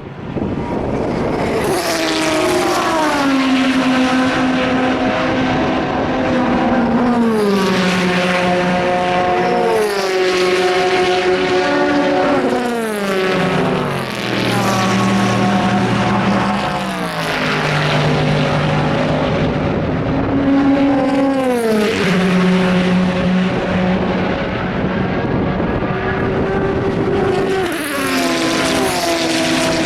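Endurance-racing cars passing one after another at full speed, each engine note dropping in pitch as it goes by, about every few seconds.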